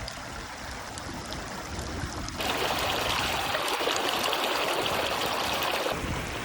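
Rainwater running, a steady rushing hiss that jumps louder about two and a half seconds in and eases back near the end.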